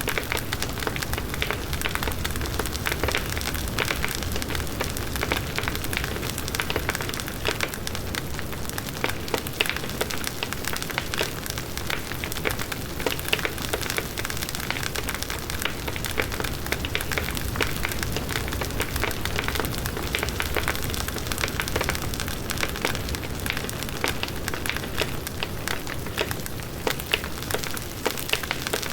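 Large wood bonfire burning steadily: dense crackling and popping of the burning wood over the low rush of the flames.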